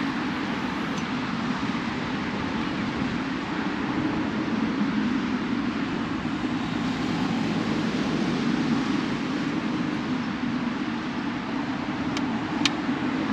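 Steady rushing noise with no pitch to it, with two sharp clicks close together near the end.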